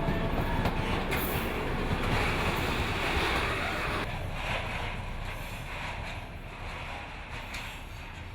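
A train rolling past on the rails, its rumble and wheel clatter dying away steadily as it moves off.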